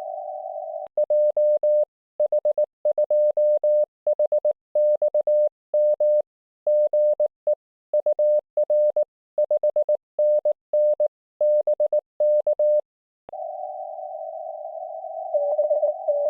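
Morse code (CW) on an Icom IC-705 transceiver in the 1.9 MHz band. A single clean tone is keyed in dots and dashes for about twelve seconds, with dead silence between the elements. Then the receiver's hiss through a narrow CW filter comes back, and a fainter Morse signal starts up in the noise near the end.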